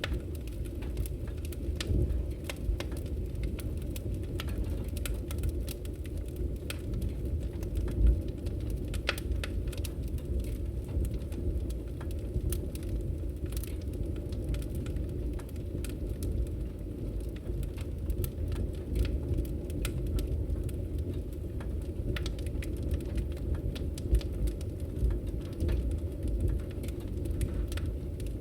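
Wood fire crackling in a fireplace: a steady low rumble of burning with many small, irregular crackles and pops. The sharpest pops come at about 2, 8 and 24 seconds in.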